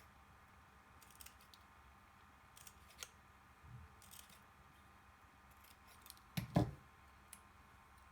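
Scissors snipping paper in short, scattered cuts, with a louder knock about six and a half seconds in.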